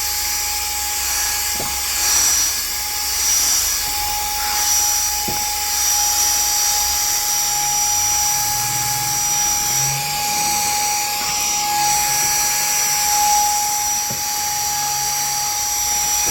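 REIKIYA HV-C11 mini cordless handheld vacuum running steadily on its lowest power setting, a high electric motor whine over a rush of air as it sucks up dust, with a few light knocks of the nozzle on the surface.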